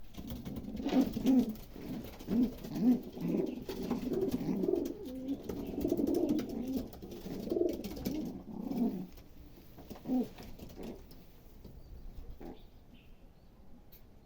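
Domestic pigeons cooing, calls overlapping one after another for about nine seconds, then a single coo about ten seconds in and only faint sounds after.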